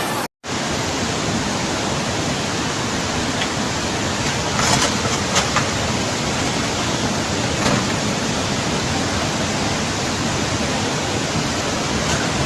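Steady, loud rushing of floodwater or heavy rain, an even hiss with no pitch, with a few faint knocks around the middle.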